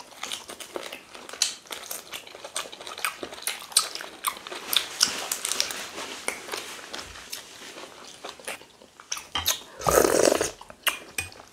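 Close-up chewing and biting on boiled chicken, with many short wet crackles and clicks. About ten seconds in there is a louder slurp of pepper-soup broth from a spoon.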